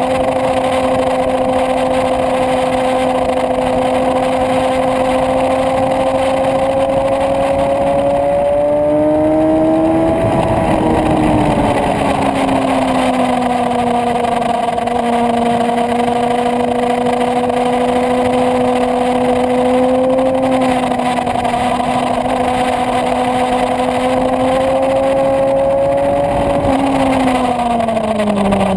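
Suzuki GSX-R 750 inline-four engine heard from onboard at track speed over wind noise. The engine note holds steady through the long corners, climbs about nine seconds in and settles a little lower, then falls away steeply near the end as the rider rolls off the throttle.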